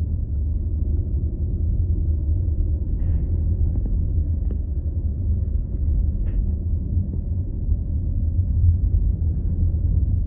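Steady low road and engine rumble of a car being driven, heard from inside the cabin, with a few faint clicks.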